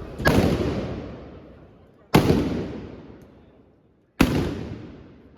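Trabucs (Catalan blunderbusses) firing blank black-powder charges: three loud blasts about two seconds apart, each echoing away for well over a second.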